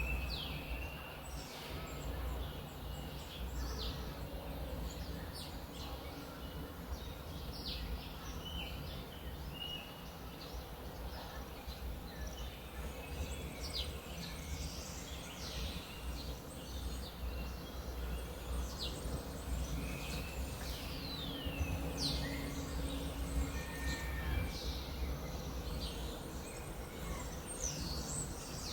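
Many birds chirping and calling, with short quick chirps coming one after another, over a steady low rumble.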